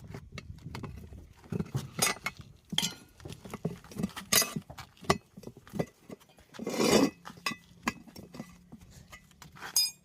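Sharp metallic clinks and knocks of hand tools being handled and set against metal, irregularly spaced, with one longer rasping burst about seven seconds in.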